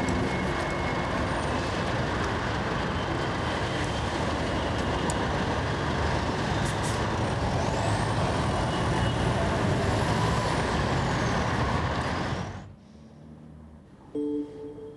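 A loud, steady rushing noise with a faint high whistle that sweeps up and back down in the middle. It cuts off suddenly about thirteen seconds in, and a few soft musical tones follow.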